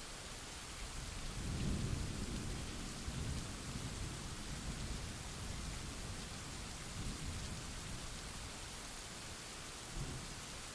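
Steady heavy rain hissing, with a roll of thunder that swells about a second in and rumbles on for several seconds, then a short low rumble near the end.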